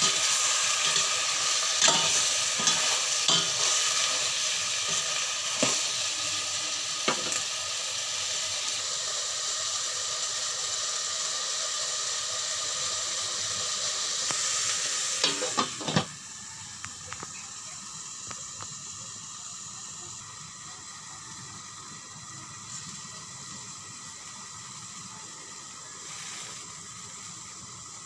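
Chicken pieces sizzling in a stainless steel pot while a spatula stirs them, with occasional sharp scrapes and clicks against the pot. About sixteen seconds in there is a short clatter and the sizzling turns quieter and muffled as a glass lid goes on the pot.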